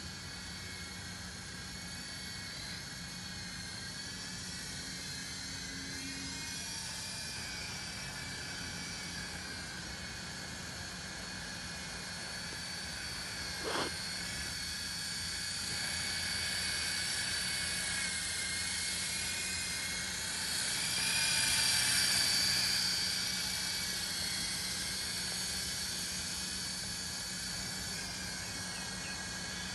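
Syma S32 toy RC helicopter flying, its small electric motor and rotor giving a steady high whine that wavers slightly in pitch. It grows louder for a few seconds about two-thirds of the way through, and there is one brief thump near the middle.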